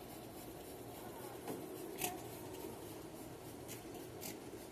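Low, steady background with a faint hum and a few light clicks or taps scattered through it.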